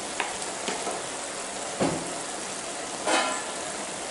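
Chicken pieces with onions and tomatoes sizzling steadily in hot oil in a kadai. There is a short knock a little under two seconds in and a brief louder sputter about three seconds in.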